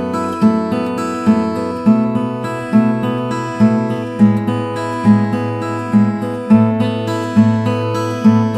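Background music: strummed acoustic guitar chords with a steady beat.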